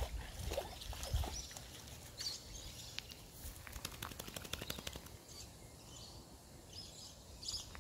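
Birds chirping and calling in open bushland, short high chirps scattered throughout, with fast runs of clicks in the first few seconds.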